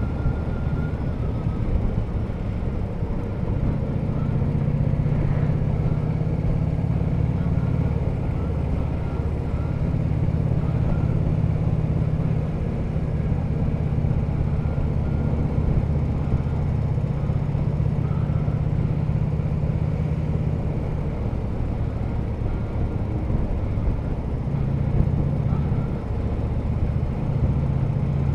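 Harley-Davidson touring motorcycle's V-twin engine running steadily while riding, with wind and road noise; the engine note shifts slightly a couple of times near the end.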